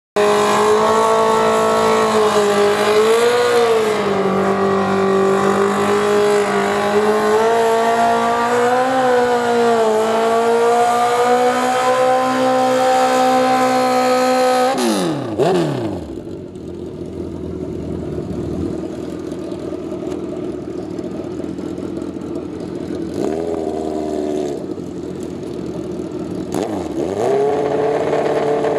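Suzuki GSX-R1000 (K3) drag bike's normally aspirated inline-four held at high revs through a burnout, its rear tyre spinning in smoke. About fifteen seconds in, the revs fall away sharply and the engine settles to a lower idle, with two short throttle blips before staging.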